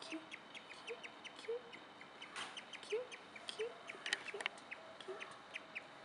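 Small bird chirping: short high ticks several times a second, with a few soft, low, briefly rising notes.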